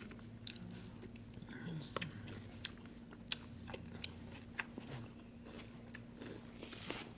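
Someone chewing crunchy cereal close to the microphone, with scattered sharp crunches and clicks, over a steady low hum.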